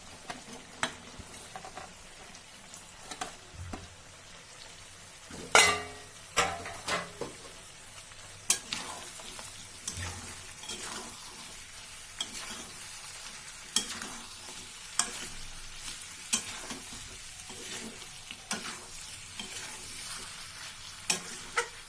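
Chicken masala sizzling in a hot kadai, stirred with a spatula that scrapes and clacks against the pan every second or so over a steady frying hiss; the loudest clatter comes about five and a half seconds in.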